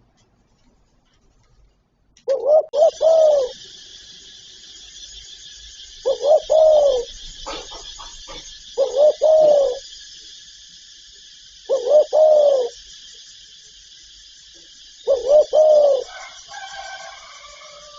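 Spotted dove cooing: five short coo phrases about three seconds apart, the first after about two seconds of near silence. A steady high hiss runs under the calls from about three seconds in, and thin higher chirps sound briefly near the end.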